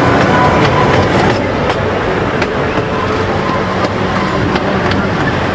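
Casey Jr. Circus Train cars rolling along their narrow-gauge track, heard from aboard: a steady rumble and rattle with irregular sharp clicks from the wheels on the rails.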